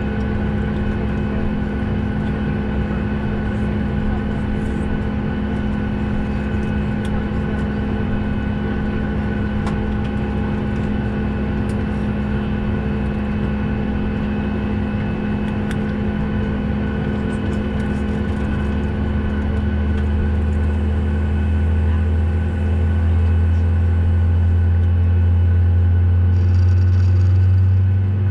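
Steady drone of a Boeing 737 airliner cabin parked at the gate, with several fixed humming tones over a low rumble. A deeper hum grows louder from about two-thirds of the way in.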